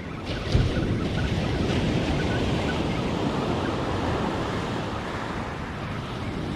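Ocean surf washing on a beach, with wind buffeting the microphone; a brief low thump about half a second in.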